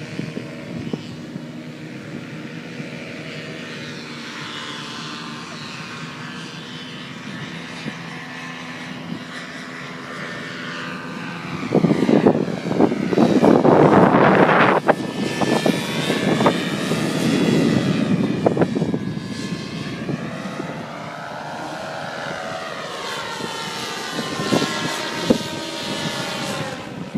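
Paramotor engines and propellers droning in flight, their pitch sliding up and down as the aircraft turn and pass. The sound grows louder and rougher for a few seconds about halfway through.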